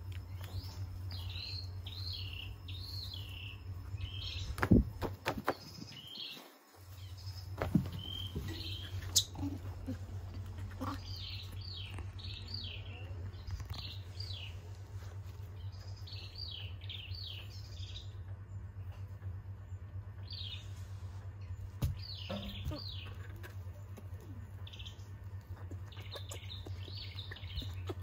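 Small birds chirping in short runs of quick falling notes, repeated every few seconds, over a steady low hum. A few sharp knocks stand out, about five and eight seconds in.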